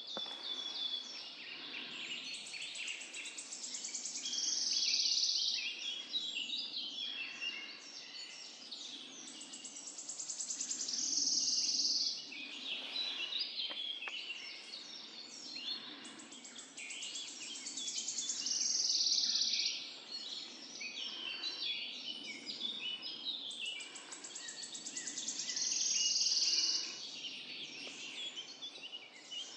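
Woodland bird chorus at morning. One songbird close by repeats a loud, high song of about four seconds that swells to a fast trill and stops sharply, four times about seven seconds apart, over many other birds chirping.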